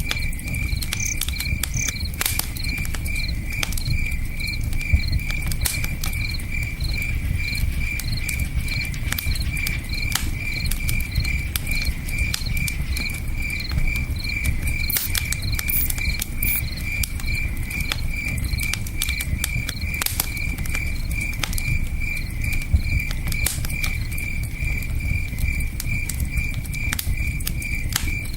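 Campfire crackling, with scattered sharp pops, over the low rush of a river. A cricket chirps steadily throughout, about three chirps a second.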